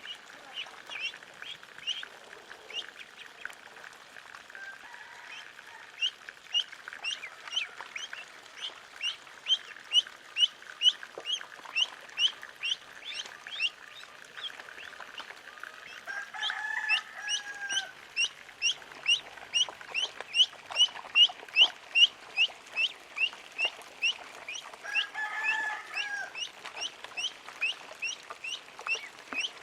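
Ducklings peeping continuously, short falling peeps about two to three a second. Twice a longer, lower call from a bigger bird cuts in.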